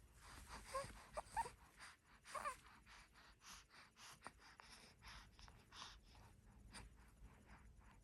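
Baby making small squeaky, breathy noises: a few short squeaks in the first two and a half seconds, then panting breaths and faint clicks.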